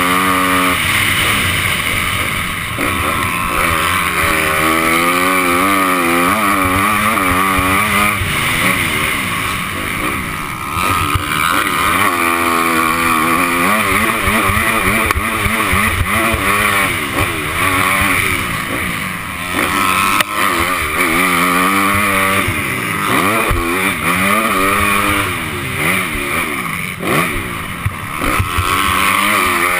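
A Honda 250-class motocross bike's engine revving hard and easing off over and over, its pitch climbing and dropping with the throttle and gear changes, over steady wind rush.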